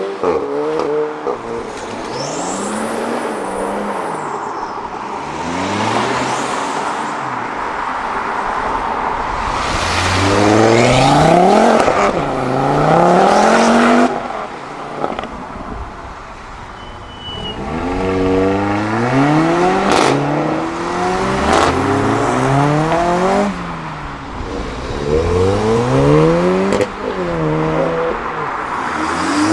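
Several modified sports cars and hot hatches accelerating hard one after another, engine notes climbing through the revs and dropping back at each gear change, with overlapping cars passing. A sharp crack about twenty seconds in.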